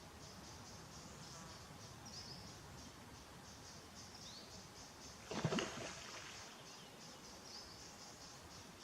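Faint outdoor nature ambience. Insects chirp in a steady, fast, evenly repeating pulse, and a few short, high falling bird chirps come through. About halfway through there is one brief, louder call or sound.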